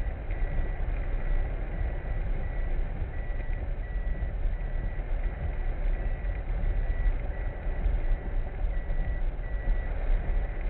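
Steady low rumble of a vehicle, with a short high electronic beep repeating about twice a second, like a reversing warning.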